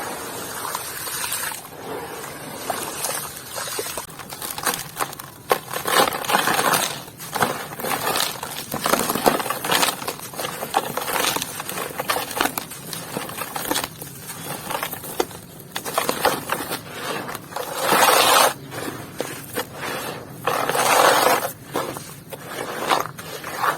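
Dry, dusty clumps crumbling and being crushed: a dense run of small crackles and gritty scraping, with louder crunching stretches about six, nine, eighteen and twenty-one seconds in.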